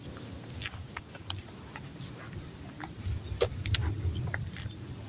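Quiet outdoor background: a faint steady high chirring like insects, a few soft scattered clicks, and a low rumble from about three seconds in.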